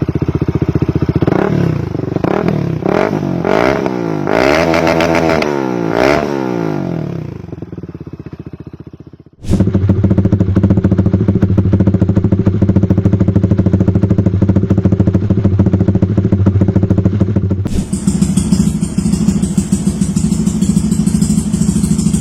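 Benelli RFS 150i motorcycle engine through an aftermarket exhaust, revved in about five quick throttle blips that rise and fall, then dying away. After abrupt cuts come two separate clips of the engine idling steadily, each with a slightly different exhaust tone.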